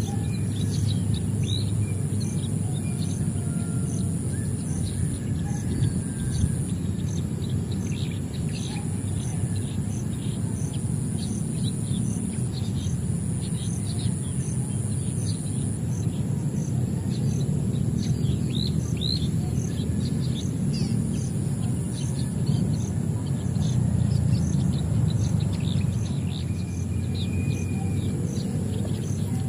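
Birds chirping, many short high calls one after another, over a steady low rumble and a continuous high buzz.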